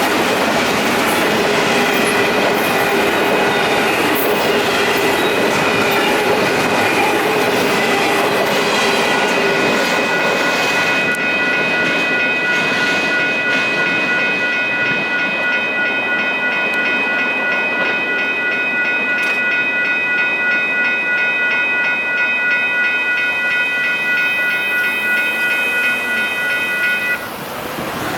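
Union Pacific double-stack freight cars rolling through a grade crossing with a clickety-clack of wheels on the rails, under the steady ringing of a WCH Type 1.5 electronic crossing bell. The train noise eases off about eleven seconds in, and the bell cuts off near the end.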